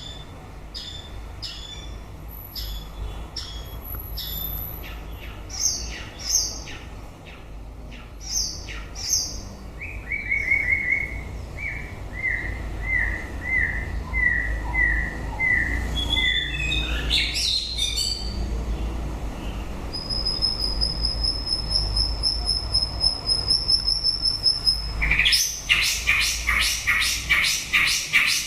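White-rumped shama singing a varied song: sharp chips, then a run of short falling notes about two a second, a quick rising sweep, a long held high whistle, and near the end a fast run of rapid notes. A steady low hum lies underneath.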